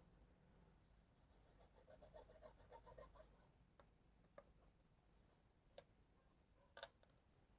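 Near silence with faint scratching as a stick scrubs carbon off a TV panel's COF ribbon contacts for about a second and a half. Then come a few small separate clicks, the sharpest near the end.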